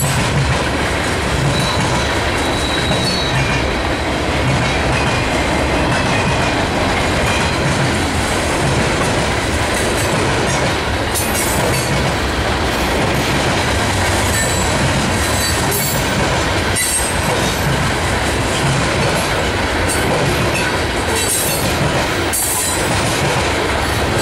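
Freight cars of a BNSF mixed train rolling past close by: a steady, loud rumble of steel wheels on rail, with clicks as the wheels cross rail joints and faint, brief wheel squeals.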